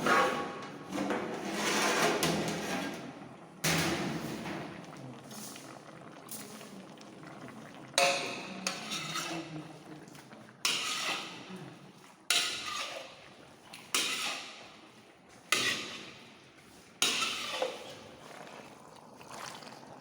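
A large batch of chicken cooking in a big pot, stirred with a metal ladle: repeated scraping and clanking strokes against the pot every one to four seconds, each starting suddenly and fading.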